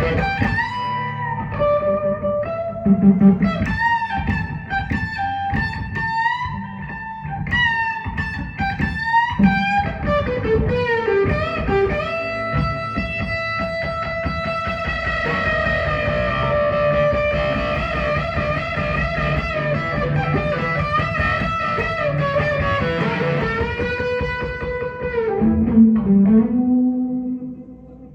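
Instrumental guitar solo, most likely electric guitar: a melody of bent and sliding notes, with long held notes that waver in pitch, over a steady accompaniment.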